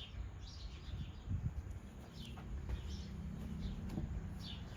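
Birds chirping: several short, high, falling chirps spread through a few seconds, over a low steady rumble.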